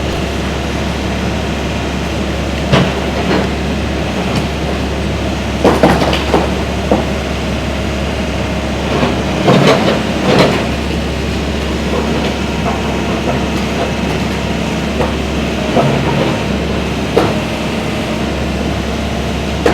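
Heavy demolition machinery running with a steady engine hum, with sharp clanks and knocks every few seconds, loudest around the middle.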